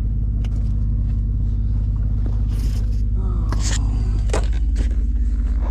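A vehicle engine running steadily, a low even hum with no change in speed.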